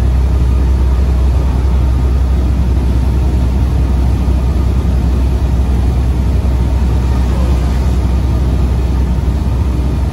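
Semi-truck day cab driving, heard from inside the cab: a loud, steady low diesel drone with road noise above it.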